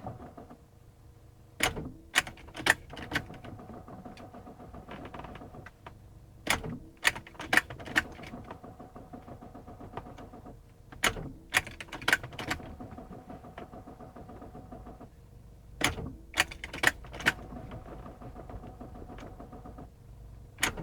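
Sharp clicking in groups of three or four, repeating about every five seconds, over a steady electrical hum, as a BMW is tried again and again and its engine does not start.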